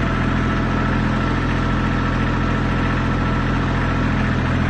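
L2600 compact tractor's diesel engine running steadily with an even, unchanging note.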